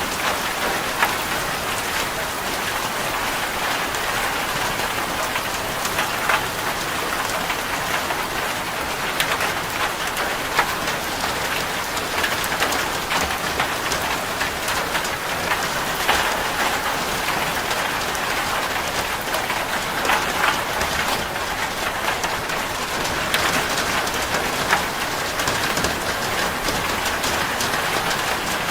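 Steady rain falling on a corrugated zinc roof: a dense, even hiss dotted with many sharp individual drop hits.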